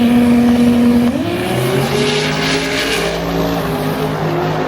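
Drag-racing car engine running hard at a steady high pitch, the pitch stepping up about a second in and holding there.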